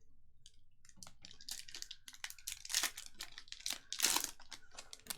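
Foil trading-card pack wrapper crinkling and crackling as it is handled and torn open, in a quick run of sharp rustles.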